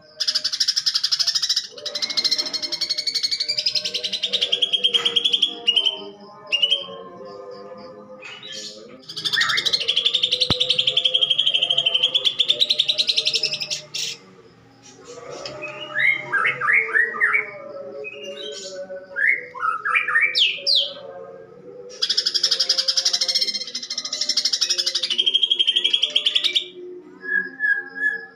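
Cucak ijo (green leafbird) singing loudly: long, harsh rattling phrases alternating with bursts of quick rising notes, a song filled with imitations of fighting house sparrows.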